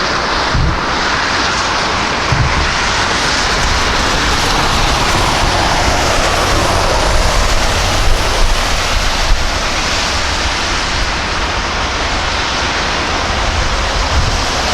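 Jet airliner passing, its engine noise sliding down in pitch over several seconds.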